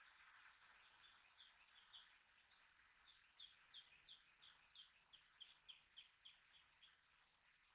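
A faint bird call: a series of short, high chirps, each falling in pitch, repeated about three times a second. It starts about a second in and stops about a second before the end.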